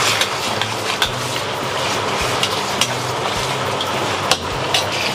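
Pork belly sizzling in hot oil in a wok while a metal spatula stirs and turns it, with sharp clinks and scrapes of the spatula against the wok every second or so.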